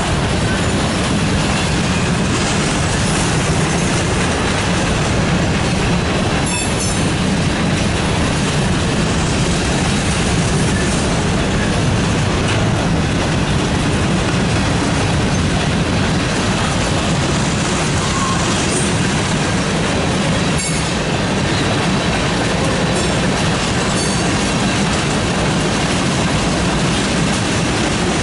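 Freight train of covered hopper and tank cars rolling past at close range: a loud, steady rumble of steel wheels on the rails.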